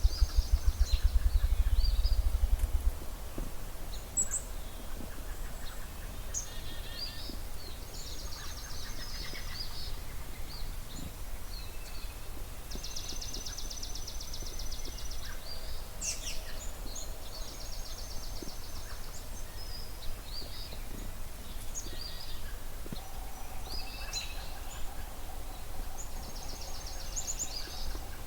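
Ruffed grouse drumming: low thumps that speed up into a fast roll and stop about three seconds in. Songbirds of a dawn chorus sing throughout, with high chirps and rapid trills.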